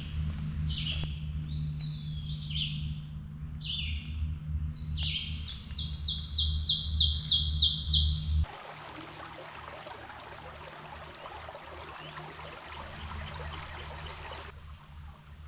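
A songbird singing a series of varied phrases that end in a loud, rapid trill of about five notes a second, over a steady low rumble. About eight seconds in, an abrupt cut changes the sound to a steady rush of flowing water from a small creek cascade, which cuts off again shortly before the end.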